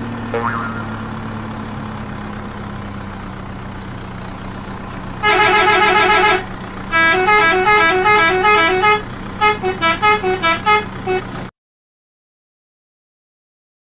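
Electronic toy-vehicle sound effects: a steady low engine-like hum, a rapid run of beeping horn tones about five seconds in, then a short tune of stepping beeps. Everything cuts off suddenly near the end.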